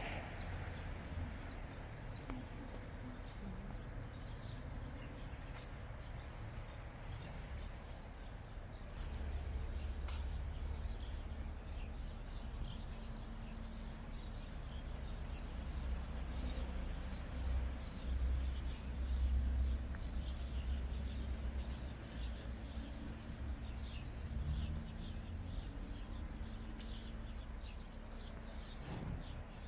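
Birds chirping in short calls over a low rumble that swells twice.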